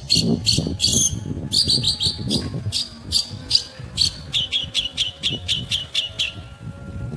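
Long-tailed shrike (pentet) singing a run of short, sharp, high notes, about five a second, quickening into a faster, slightly lower series and breaking off about six seconds in.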